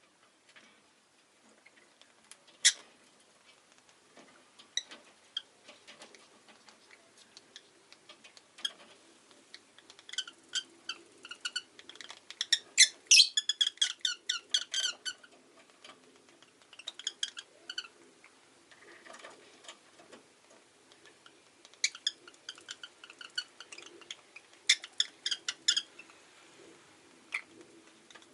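Rosy-faced lovebird chirping: a few scattered sharp calls, then several runs of rapid, high-pitched chirps, the longest in the middle.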